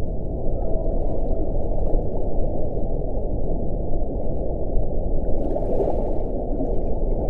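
Wind blowing, a steady low, muffled rumble with a brief hissing gust about six seconds in.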